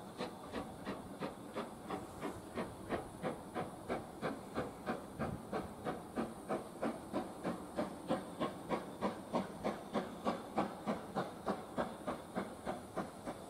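Steam locomotive working hard, its exhaust beating in a steady chuff at about three beats a second, with a hiss of steam; the beats grow louder about eight seconds in.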